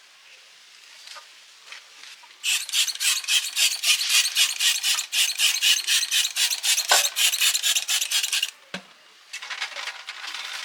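Rapid back-and-forth abrasive rubbing by hand, about five strokes a second. It starts about two and a half seconds in, runs for about six seconds and stops; quieter rubbing starts again near the end.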